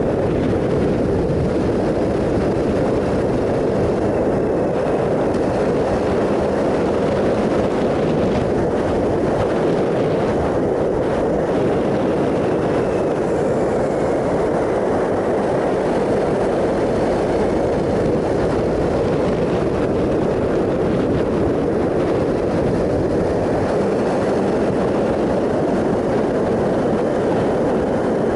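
2007 Triumph Sprint ST 1050, an inline-three motorcycle, ridden at a steady speed: an even mix of engine and wind noise that holds level throughout.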